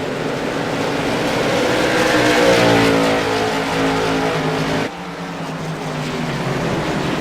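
V8 late model stock car engines running at racing speed, one car's engine note swelling and then dropping as it passes about halfway through. The engine sound changes abruptly about five seconds in.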